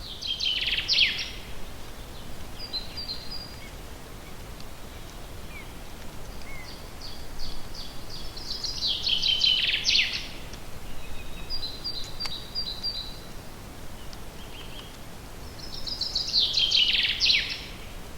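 Forest songbird singing three loud trilled phrases that drop in pitch, repeated every seven or eight seconds, with softer calls from other birds between them, over a steady background hiss.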